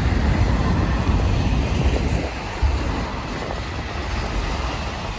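Union Pacific freight train cars rolling past at close range, a steady rail rumble that eases a little about two seconds in.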